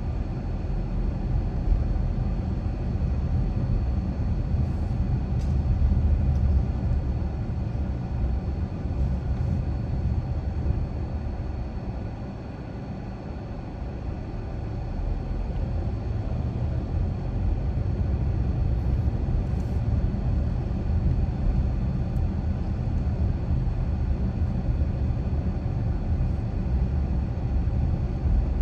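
A car driving steadily, with a low rumble of road and engine noise that eases briefly about twelve seconds in.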